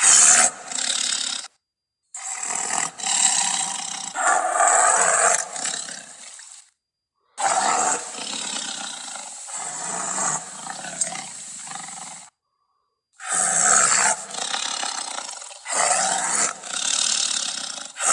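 Cave bear sound effects: four separate bear roars in a row, each cut off abruptly with a brief dead silence between them.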